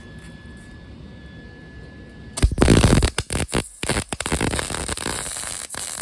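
Lincoln MIG welder arc striking about two and a half seconds in and crackling loudly as small steel tie-down hooks are welded on, stopping and restarting a few times. Before the arc there is only a low steady hum.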